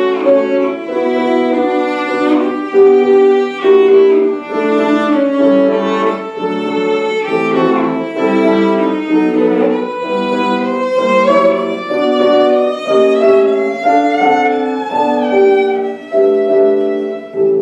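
Violin playing a classical piece live, a melody of held and quickly changing notes.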